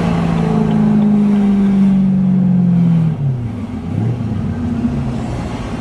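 BMW M3 E92's 4.0-litre V8 through a Kreissieg valvetronic cat-back exhaust, pulling with a steady note that sags slightly in pitch. About three seconds in the throttle closes: the note drops sharply in pitch and level to a lower, uneven burble.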